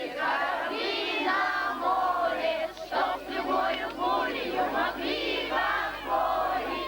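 A group of children's voices singing together, several voices overlapping with some notes held.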